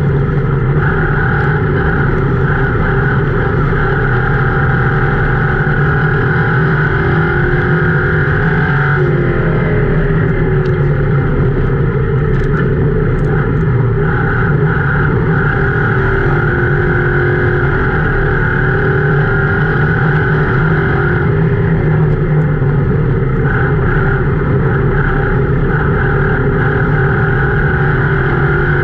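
Ford Crown Victoria race car's V8 engine heard from inside the cabin, running hard and steady at racing speed in a three-wide dirt-track pack. Its pitch dips briefly and climbs back about nine seconds in, and again a little past twenty seconds.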